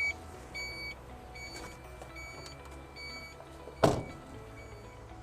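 Electronic warning beeper on an XCMG off-highway dump truck sounding a repeated high beep over a low steady hum, with one loud metallic clunk about four seconds in.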